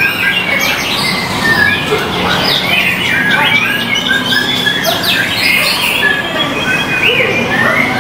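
White-rumped shama singing a fast, continuous run of varied whistles, chips and squawky notes, typical of a contest murai batu in full song.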